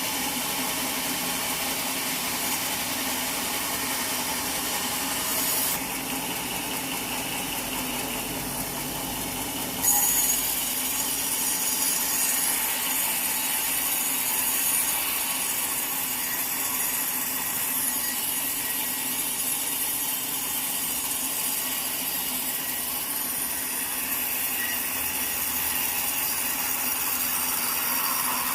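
Sawmill saw cutting through a teak log, a steady running drone with a hiss of sawing on top. The hiss drops off at about six seconds and comes back abruptly just before ten seconds.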